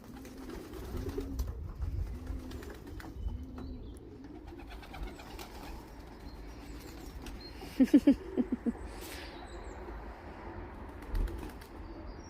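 Racing pigeons cooing: repeated low coos that rise and fall, with a louder burst of cooing about eight seconds in.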